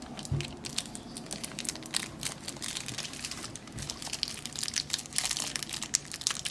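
Crinkling plastic packaging being handled and opened by hand, a continuous run of small crackles that gets busier about two seconds in and again near the five-second mark.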